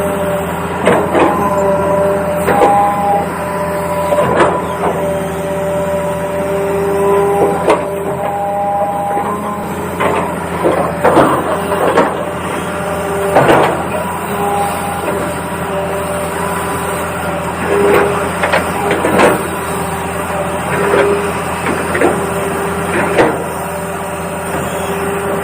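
Electric gear motors of a toy RC excavator whining steadily, their pitch stepping up and down as the motors start and stop, with scrapes and knocks every few seconds.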